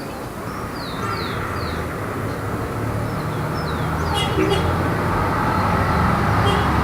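Light city street traffic: a steady wash of passing cars, with a vehicle's low rumble growing louder from about three seconds in. Birds chirp over it, a series of short falling chirps in the first couple of seconds and a few brief high notes later.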